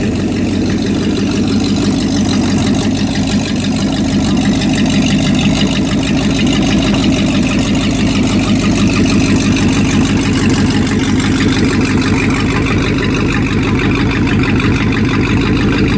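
Motorboat engine idling steadily, with a rapid even firing pulse and no change in speed.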